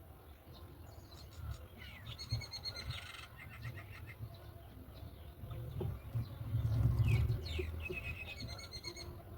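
Nestling birds giving rapid, rattling calls in two bouts, one about two seconds in and another near the end. A low rumble swells about two-thirds of the way through.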